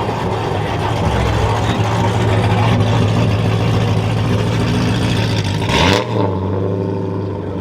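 Deep, steady V8 engine rumble from a Mopar muscle car rolling past at low speed, with a quick sharp rev about six seconds in.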